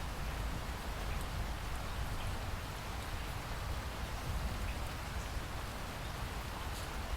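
Steady rainfall in a rainforest: an even hiss of rain with a low rumble underneath and faint scattered drip ticks.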